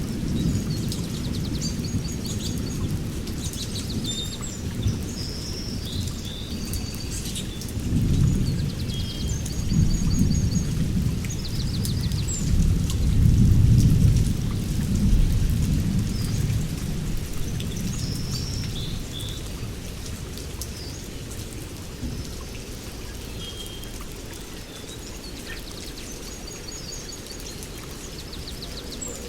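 Rain falling with a low rolling rumble of thunder that swells and fades in the middle, while small birds chirp and trill over it.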